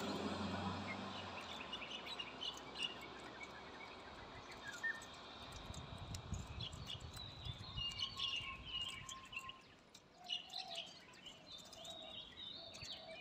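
Faint, scattered high chirps of small birds, with a low rumble fading out about a second in.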